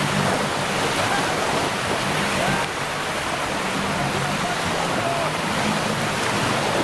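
Jet ski engine running with a low drone under a steady rush of water spray and wind.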